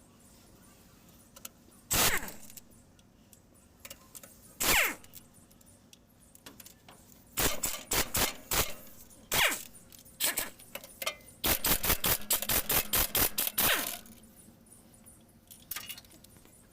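Metal tools and parts clinking and knocking during truck clutch work. There are single sharp strikes at first, then a rapid run of clinks lasting a couple of seconds.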